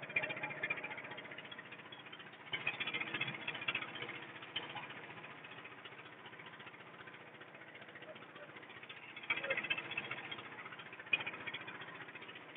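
Small boat's engine running steadily with a rattle.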